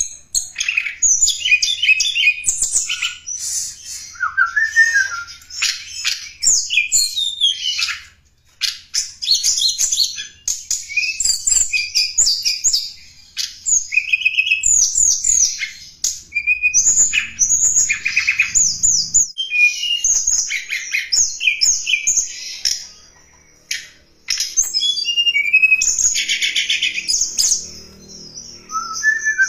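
Tledekan gunung song used as a bird lure: rapid high chirps, trills and quick sweeping notes in long busy phrases, with short pauses twice.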